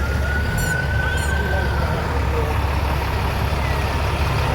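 A siren holds one wailing note that slowly rises and then fades out about two seconds in, over a steady low rumble of vehicle engines.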